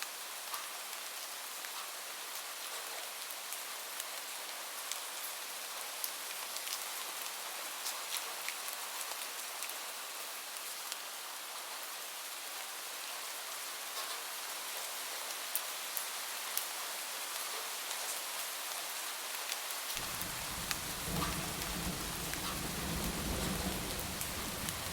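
Steady rain with a dense patter of individual drops; about four-fifths of the way through, a low rumble of distant thunder rises beneath it.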